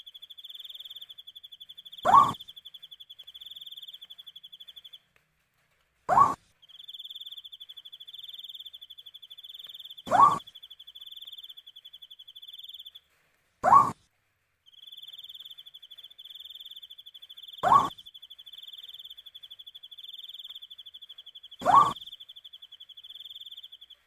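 An owl giving a short, rising hoot about every four seconds, six times, loud over a cricket's steady pulsing trill that breaks off twice for a second or two.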